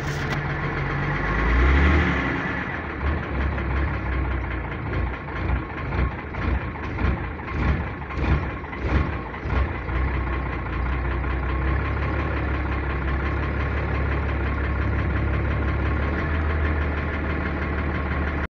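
GAZ-4301 truck's GAZ-542 diesel engine running harshly with a knock whose cause is unclear. Its loudness rises and falls repeatedly in the first half, then it settles into a steady run.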